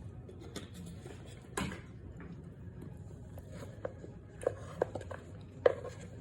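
Someone biting and chewing lumps of starch, with a short noisy crunch about a second and a half in and a run of sharp clicks in the second half, the loudest near the end.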